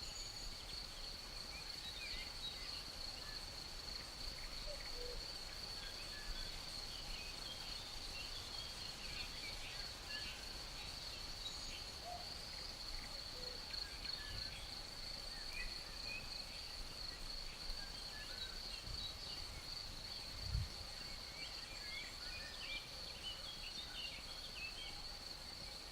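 Night-time nature ambience: crickets keep up a steady, high, continuous trill, with scattered short bird chirps over it. A brief low thump comes about twenty seconds in.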